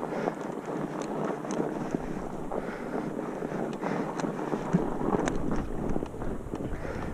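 Wind buffeting the microphone with a steady rough rumble and scattered clicks and knocks throughout, as from a camera carried along over rough ground.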